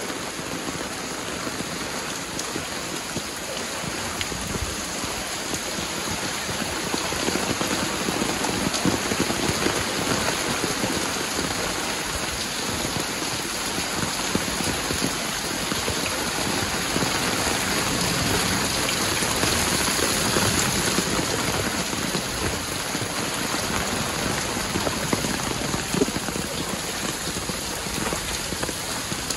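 Heavy downpour: torrential rain falling steadily onto ankle-deep floodwater and concrete, a dense hiss of drops.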